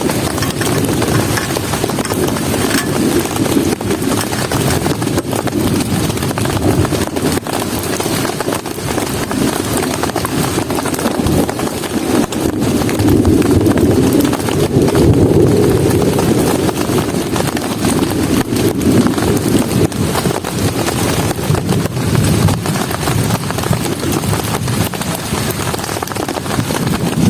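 Heavy rain falling steadily on a camp shelter's fabric, a dense patter of drops that swells a little midway.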